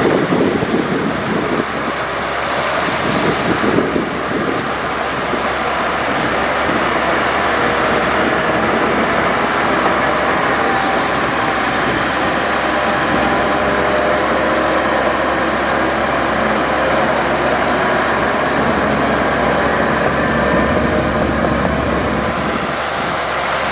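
Diesel engine of heavy earthmoving machinery running steadily, with wind buffeting the microphone in the first few seconds.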